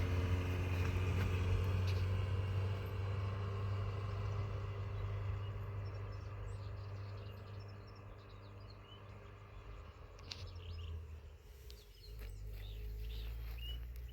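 A motor vehicle's engine running with a steady low hum that fades away over about ten seconds, as if it moves off. Faint bird chirps follow near the end.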